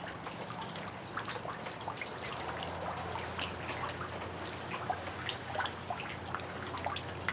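Rain dripping: many scattered single drops over a light trickle of water, with a steady low hum underneath.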